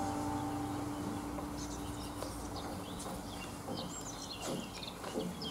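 The last held note of the music fades out over the first couple of seconds, leaving birds chirping with many short, high calls.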